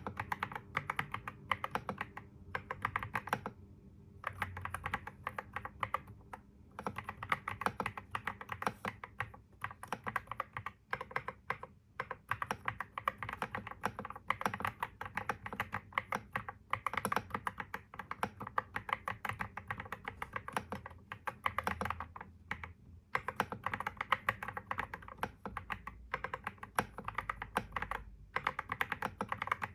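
Computer keyboard being typed on continuously: fast runs of key clicks broken by short pauses every few seconds.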